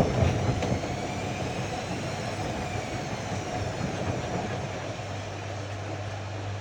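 Ariston AML125 washer-dryer running: a steady machine hum and drum noise with a faint motor whine that rises and falls slightly, and a knock right at the start.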